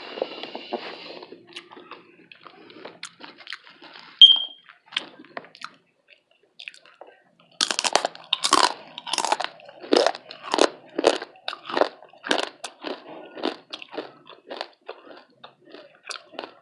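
Close-miked chewing of crispy bacon: a few faint mouth clicks, then about halfway through a run of loud, sharp crunches, roughly two a second, that gradually grow softer.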